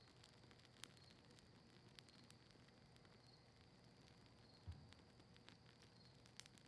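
Campfire of cedar leaves and maple wood crackling faintly, with a few sharp pops spread through and a short low thump just past the middle.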